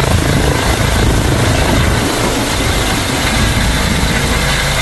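Helicopter sound effect: a helicopter's rotor and engine running steadily, with a fast beating in the low end.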